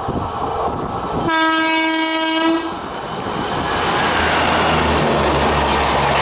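Indian Railways WAP-4 electric locomotive sounding one long horn blast, about a second and a half, around a second in. After that the noise of the locomotive and its coaches passing close by swells and holds loud from about four seconds in.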